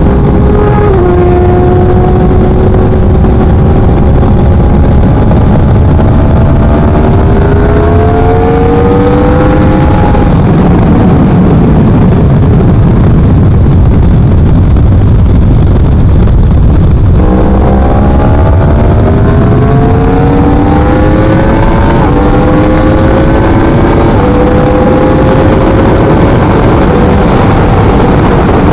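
2017 Yamaha R1's crossplane inline-four running through an aftermarket Leo Vince exhaust while riding: the engine note climbs through the gears, dropping at each upshift. It fades off the throttle about ten seconds in, comes back sharply about seventeen seconds in and climbs again through two more shifts. Plenty loud.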